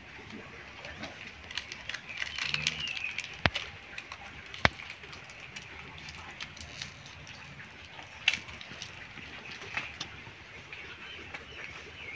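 Birds chirping, with three sharp clicks scattered through.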